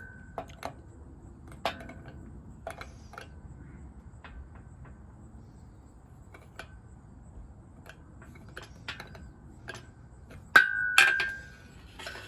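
Metal hand tools clinking and knocking against metal, the scattered light taps each followed by a brief ring; two louder clanks come near the end.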